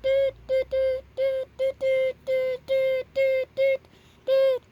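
A buzzy, synthetic-sounding voice-like tone held on one pitch in a string of about a dozen short notes of uneven length and spacing, with a short pause near the end.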